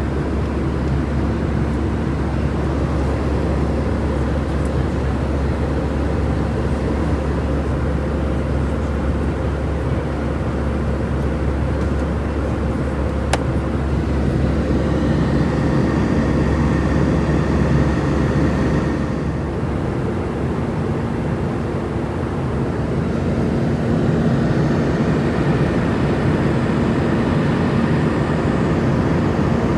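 Airbus A320 cabin noise in flight: a steady rush of airflow and engine hum with several droning tones. About two-thirds through, the deepest part of the hum drops away, and there is one brief click about a third of the way in.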